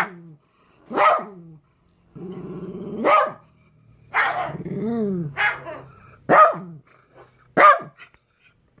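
A dog barking in short single barks, about five in all, with low growling between them.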